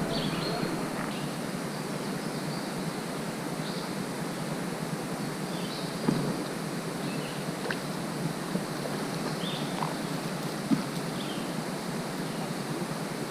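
Steady rush of a flowing creek, with short high chirps now and then and two brief clicks, one about halfway through and one near the end.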